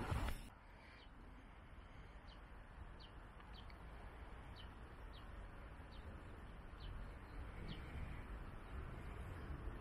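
A small bird chirping: short, high, falling notes repeated every half second to a second, over a steady low outdoor rumble. A brief louder noise comes right at the start.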